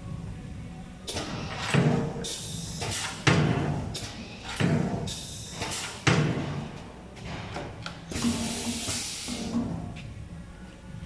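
Pneumatic corner crimping machine for PVC window frames cycling: repeated clunks of its moving parts, with bursts of air hiss lasting about a second, three times.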